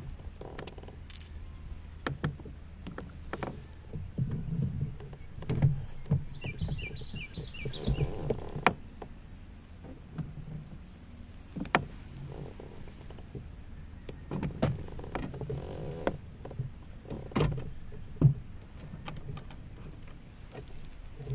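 Irregular knocks and bumps on a kayak's hull as someone moves and handles gear aboard, with sharp knocks about 6, 12 and 18 seconds in. A short run of high, quick chirps comes about seven seconds in.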